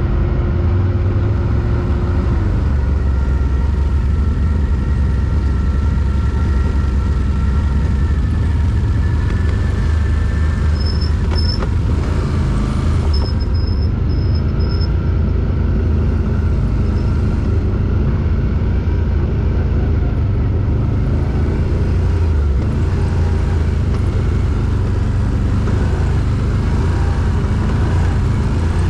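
ATV (quad bike) engine running steadily with a continuous low rumble.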